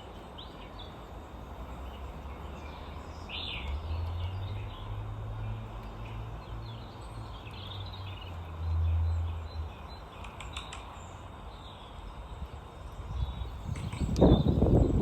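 Small garden birds chirping and calling over steady outdoor background noise. A low hum runs underneath from about four to ten seconds in, and a loud low rumble comes near the end.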